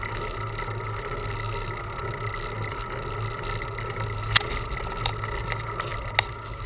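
Steady rumble of wind and road noise from a bicycle in motion, with a few sharp clicks a little past the halfway point.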